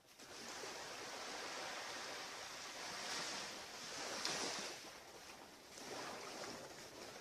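Surf washing on a beach: a steady hiss of waves that swells three times.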